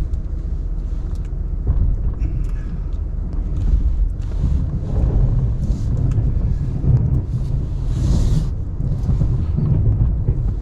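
Ram 1500 Classic pickup's engine running steadily with a low rumble while it plows snow, with a brief hiss about eight seconds in.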